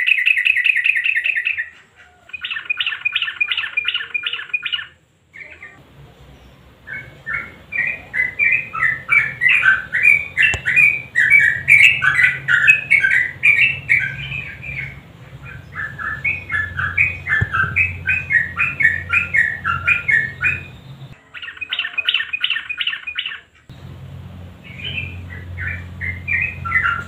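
Yellow-vented bulbul singing: several bouts of rapid, chattering trilled phrases with short gaps between them, the longest bout in the middle. A low steady hum sits behind some of the bouts.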